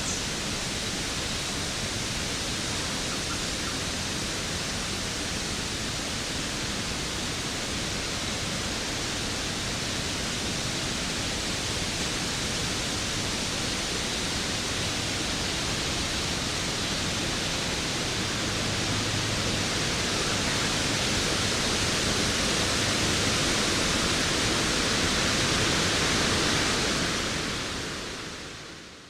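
Steady, even rush of a waterfall, fading out near the end and swelling back in.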